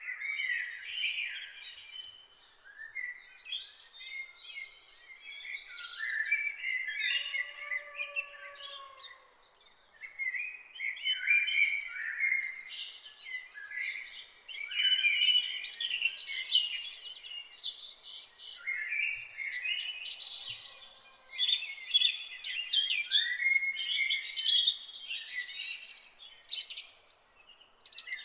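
Several songbirds singing at once in a dense, continuous morning chorus of quick chirps and warbled phrases, with a thin steady high tone underneath.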